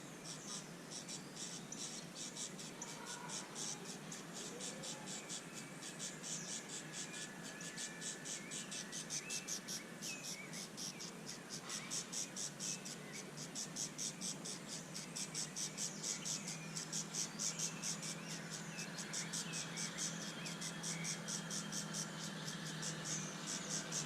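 An insect, cricket-like, chirping in a fast, even train of high-pitched pulses, with faint bird chirps and a low steady hum underneath that grows louder in the second half.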